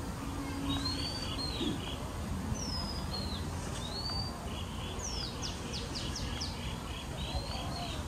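Songbirds calling in the trees: short whistled notes that sweep up or down, and fast runs of repeated chirps at about six a second. Underneath is a steady low outdoor rumble.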